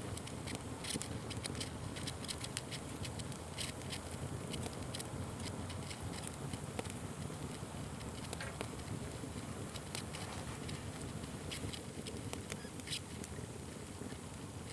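Fire crackling and popping: many irregular sharp snaps over a steady low rush of the flames.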